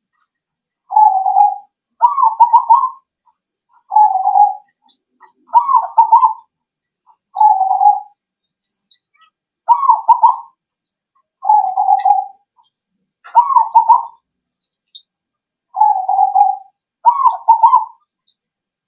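Zebra dove (perkutut) singing: about ten short cooing phrases, roughly one every one to two seconds. The phrases alternate between a steady low coo and a rolling, warbled coo.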